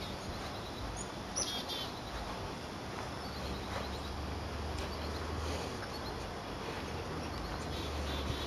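Outdoor ambience: birds chirping in a few short series, about a second and a half in and again near four seconds, over a faint low steady hum.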